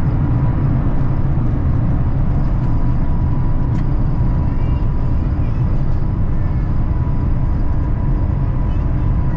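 Inside the cabin of a Cathay Pacific Airbus A350-1000 airliner: a steady, loud, low rumble with a thin steady whine over it.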